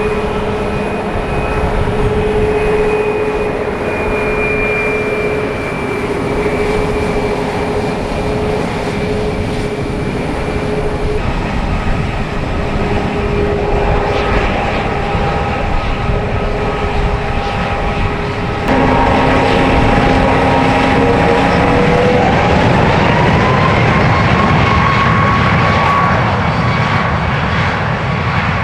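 Jet engine noise from a Ryanair Boeing 737 MAX's CFM LEAP-1B turbofans, a steady roar with several whining tones. About two-thirds in it gets suddenly louder, and a few seconds later the whine rises in pitch and holds.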